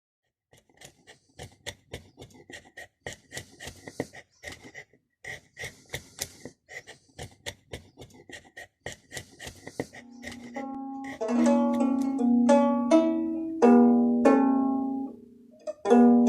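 A run of quick light clicks and taps for about the first ten seconds, then the strings of a diatonic Greek-style tortoise-model lyre plucked one note after another, each note ringing on, with a short gap near the end.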